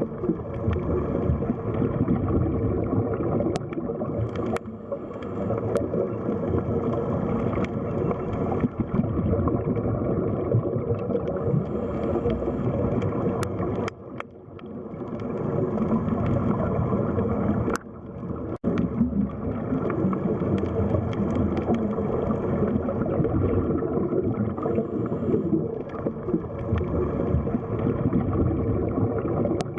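Underwater ambience: muffled, steady rushing and gurgling of water, with a few faint clicks and two brief drops in level partway through.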